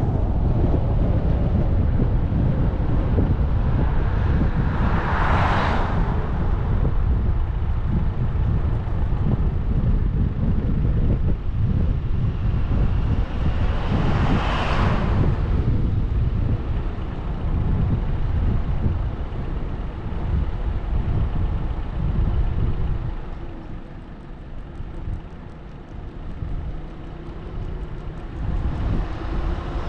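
Road and wind noise of a car driving, a steady low rumble, with two brief rising-and-falling whooshes about nine seconds apart. The rumble eases off in the last few seconds.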